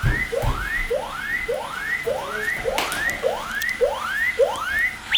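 Repeating electronic whoop from a robot: a tone that sweeps up and levels off, close to twice a second, alarm-like. There is a low thump near the start and a click about halfway through.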